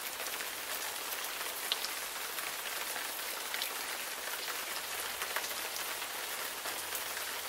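Steady rain falling on a surface, an even hiss with scattered light drop ticks.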